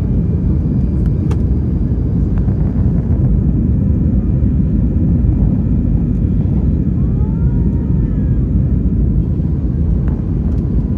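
Steady low rumble of an Airbus A320 in flight, the engines and airflow heard from inside the passenger cabin, with a few faint brief tones about seven seconds in.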